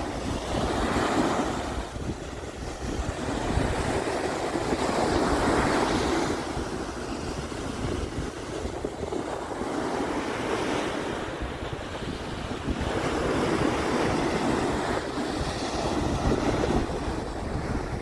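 Sea waves breaking and washing up on a sandy beach, the surf swelling and fading about every four seconds, with wind rumbling on the microphone.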